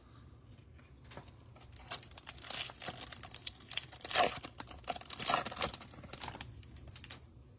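Crinkling and tearing of a trading-card pack wrapper being opened and handled, an irregular run of crackles loudest about four and five and a half seconds in.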